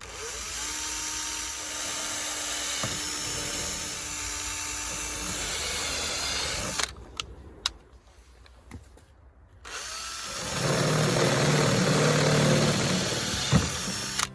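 Power drill running in two long runs, separated by a pause of a few seconds with a few clicks. This is drilling or driving into the wall to fasten the downspout bracket, and the second run is louder.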